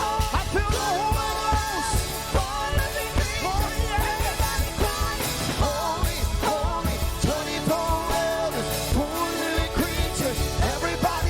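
Live worship music: a band with drum kit playing under a singer's melodic vocal line with long held, sliding notes.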